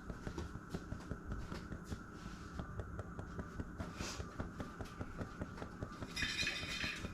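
Faint clicks and light taps of objects being handled in a kitchen, with a brief rustle about six seconds in.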